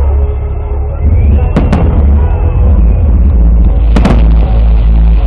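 Fireworks salute: shells bursting with two sharp bangs, one at about one and a half seconds in and one about four seconds in, over a constant loud low rumble.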